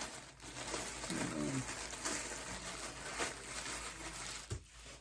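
Rustling and crinkling of packaging and clothing being handled, with scattered crackles throughout. A brief low voiced sound falls in pitch about a second in, and a single knock comes near the end.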